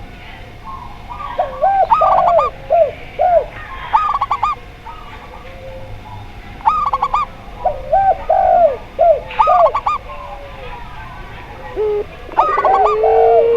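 Zebra doves, spotted doves and a puter pelung dove cooing together. Groups of short, bouncing coo notes come every second or two, and near the end comes one long, slowly falling drawn-out coo.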